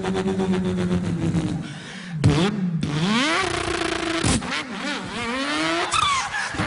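A man imitating a car engine with his voice. A steady idling drone fades out just under two seconds in, then revs rise and fall in pitch again and again, broken by a couple of sharp clicks.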